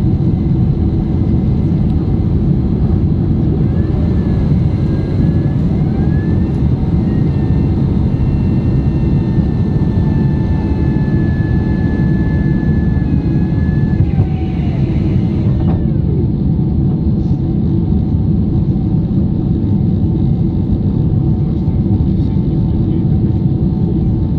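Steady low rumble of an airliner's engines and rushing air heard inside the passenger cabin, with faint thin tones gliding up and down for a while in the middle.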